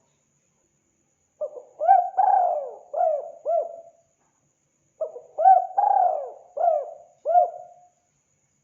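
Spotted dove (tekukur) cooing: two phrases of about five notes each, the second starting a second or so after the first ends.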